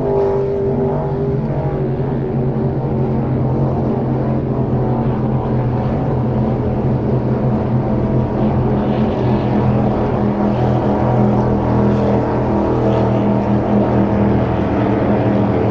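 Powerboat engines running steadily, a dense drone of several engine notes holding a constant pitch.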